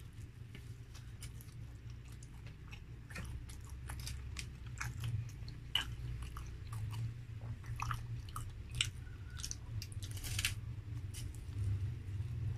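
A person biting into and chewing a cheeseburger close to the microphone: many short, irregular wet mouth clicks, more frequent from about three seconds in, over a steady low hum.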